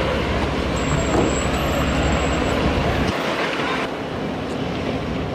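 Strong wind gusting and buffeting the microphone as a loud, steady rush with a heavy low rumble; the rumble drops away abruptly about three seconds in.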